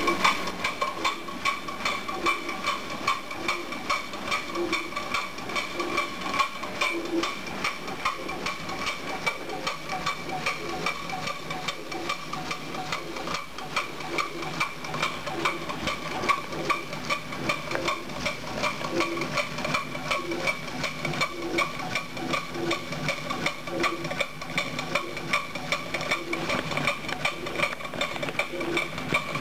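Live-steam model road locomotive's engine running, a fast, even clatter of exhaust beats and moving parts with a steady high whine above it.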